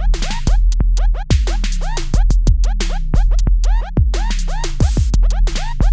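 Electronic music with a heavy, steady bass line, repeated falling scratch-like sweeps and sharp beats, played through a Proton Tempo wireless Bluetooth speaker in a sound test. Near the end a fast roll of beats comes in.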